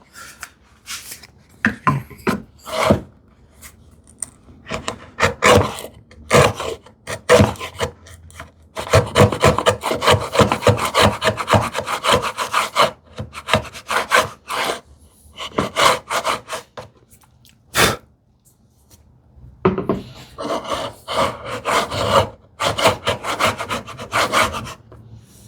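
Hand router plane cutting the bottom of a housing dado in wood, taking many short scraping strokes to bring the second side to depth. The strokes come in two busier runs, one in the middle and one toward the end.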